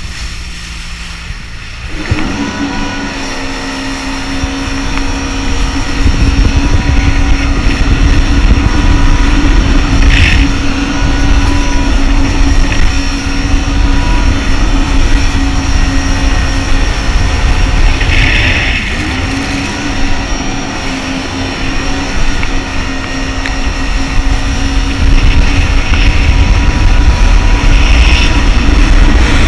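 Jet ski engine running at speed, with a heavy rush of wind and water on the microphone. The engine picks up about two seconds in and the ride gets louder from about six seconds, with two brief hissing bursts of spray partway through.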